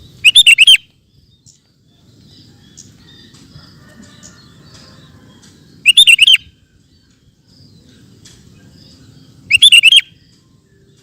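Sooty-headed bulbul (kutilang) singing three short, loud phrases of several quick notes each: about a second in, at about six seconds, and near ten seconds. Faint background noise lies between the phrases.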